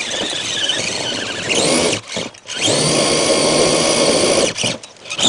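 Electric motor of a 1/10-scale RC truck whining under throttle in bursts: a whine rising about a second and a half in and cutting off, then a second burst rising and holding steady for nearly two seconds before stopping.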